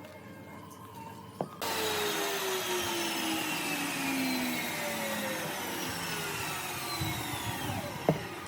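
An electric power tool working wood: it starts abruptly about a second and a half in and runs with a whine that slowly falls in pitch, stopping near the end with a sharp knock.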